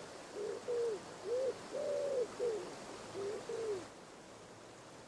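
Common wood pigeon cooing: a run of soft, hollow coos, some short and some drawn out, that stops about four seconds in.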